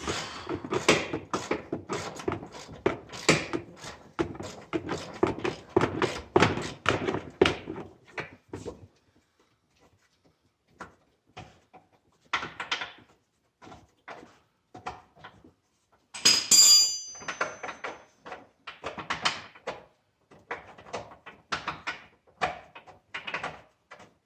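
Hand ratchet working loose a steering gearbox mounting bolt: a dense run of quick clicks and knocks, then scattered clicks. About two-thirds of the way through there is one ringing metal clink, the loudest sound.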